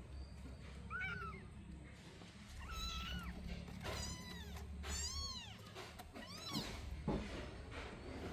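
Kittens mewing: about five high-pitched mews, each rising and then falling in pitch, spaced roughly a second apart.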